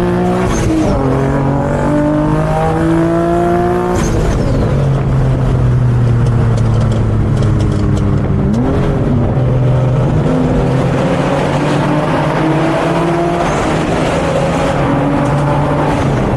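Infiniti G37's twin-turbo VQ V6 engine accelerating hard: the pitch climbs, drops sharply at a shift or lift about four seconds in with a sharp crack, then climbs slowly again with another brief dip near the middle and a fall near the end.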